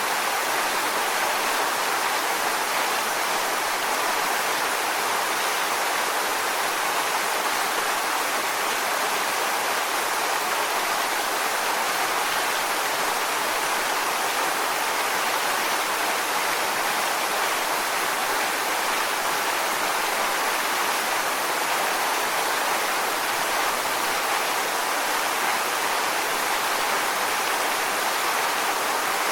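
Waterfall: a steady, even rush of falling water, strongest in the mid and upper range with little low rumble.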